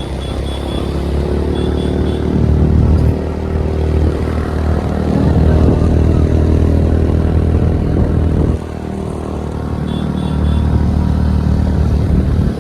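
A vehicle's engine running under load, its pitch and level rising and easing as it changes speed. It drops off suddenly about eight and a half seconds in, then builds again.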